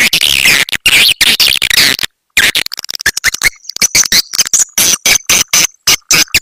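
Swiftlet call track: dense, rapid twittering chirps of swiftlets, played to lure the birds in. The chirping is chopped by many sudden short gaps, with a thin steady whistle running under it in the second half.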